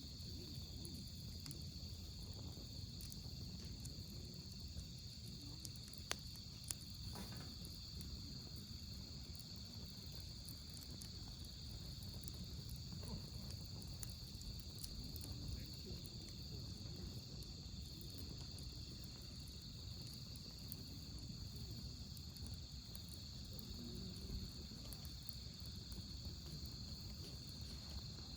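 Wood campfire burning with a low rumble and a few sharp crackling pops, the clearest about six and seven seconds in, under a steady high chirping of crickets.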